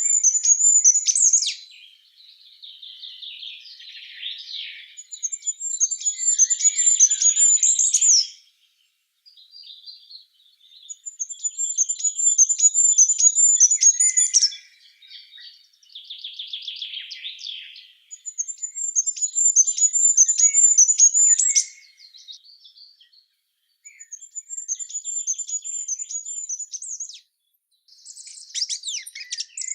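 Songbirds singing. One bird repeats a high, rapid trilled phrase about two to three seconds long, ending in a short flourish, five times at roughly six-second intervals. Softer, lower twittering from other birds fills the gaps.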